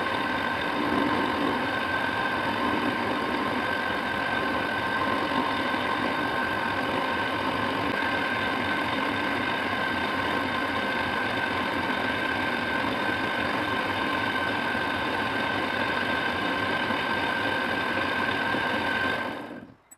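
A workshop power tool running steadily with a constant whine over a noisy rumble, stopping abruptly near the end.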